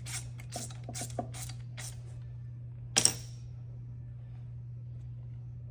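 Workshop handling noises: a run of soft scuffs and clicks for about two seconds, then a single sharp metallic clank with a brief high ring about three seconds in, over a steady low hum.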